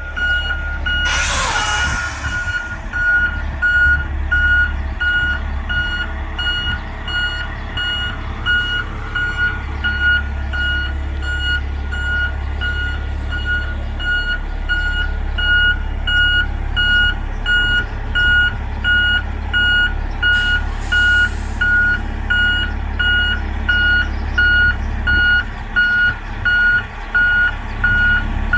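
A truck's backup alarm beeping steadily, a single-pitch beep repeating a little more than once a second, over the low rumble of the running engine. Two short hisses come through, about a second in and about twenty seconds in.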